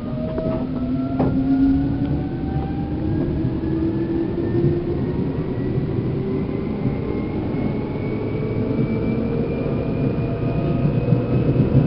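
Seibu New 2000 series motor car's traction motors and gearing whining from under the floor, with several tones rising steadily in pitch as the train accelerates, over a rumble of wheels on rail. A couple of sharp clicks come about a second in.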